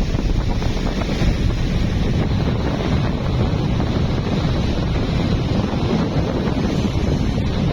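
Steady wind rumble on the microphone aboard a moving boat, with the boat's running noise underneath.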